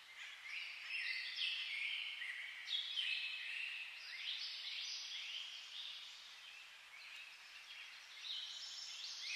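A dense chorus of many birds chirping and twittering at once, high calls overlapping without pause over a steady hiss.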